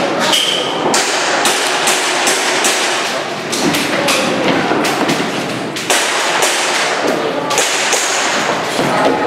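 Airsoft pistol shots fired in quick strings with short pauses between them, a series of sharp pops spread through the whole stretch.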